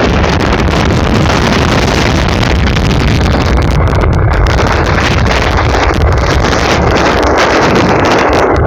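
Typhoon Krathon's storm wind blowing hard and steadily, buffeting the microphone with a heavy low rumble.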